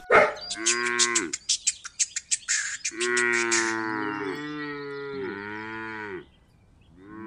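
Cow mooing: a short moo about a second in, then three drawn-out moos one after another, with another moo starting at the very end. A fast run of clicks sounds over the first three and a half seconds.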